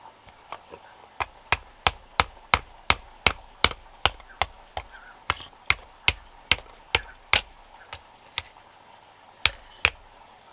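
Hammering: a steady run of sharp blows, about three a second, starting about a second in and going for some six seconds, then two more blows near the end.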